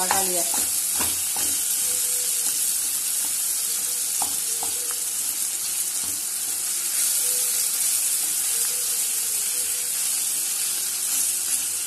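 Chopped tomatoes and onions with chillies and curry leaves frying in hot oil in a pan, a steady sizzle, with a wooden spatula stirring and knocking lightly against the pan now and then as the tomatoes are cooked down.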